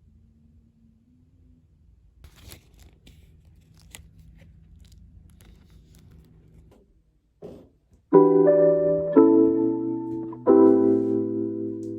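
Faint room sounds with a few light clicks, then, about two-thirds of the way in, piano music begins: loud chords struck and left to ring, a new chord every second or so.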